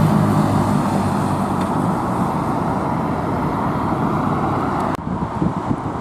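Road traffic noise as a passing vehicle's engine fades away, leaving a steady rush of tyres and traffic. The sound cuts off abruptly about five seconds in and resumes as similar roadside traffic noise.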